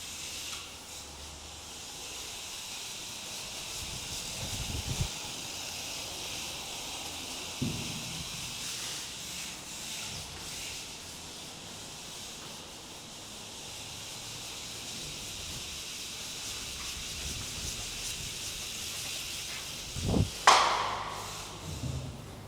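A 1/64-scale LDARC R02 mini RC car driving on a hard floor, its tiny electric motor and gears making a steady high hiss. A few light knocks come early on, and one sharp loud knock comes about twenty seconds in.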